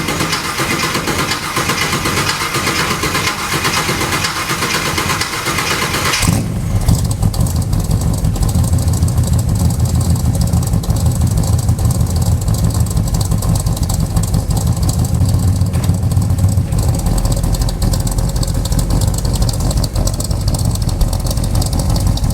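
1978 Chevy K30 pickup's engine cranking over on the starter after sitting about two months, catching about six seconds in and then running steadily at idle.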